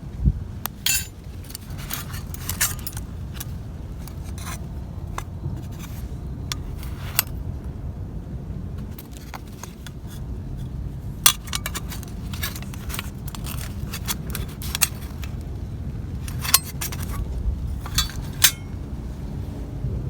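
Metal camp gear being handled, giving scattered light clinks and scrapes, a dozen or so sharp ones, over a steady low rumble.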